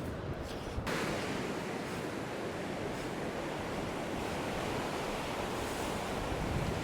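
Surf breaking and washing up a beach, a steady rush, with wind buffeting the microphone; the sound grows fuller and brighter a little under a second in.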